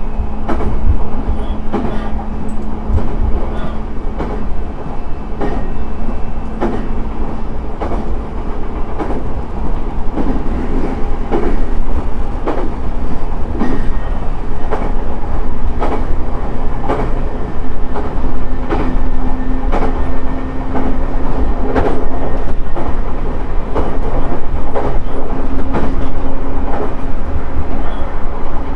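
JR East E131-600 series electric train running, heard on board: wheels clicking over rail joints again and again over a steady running rumble. A low hum rises a little in pitch about halfway through.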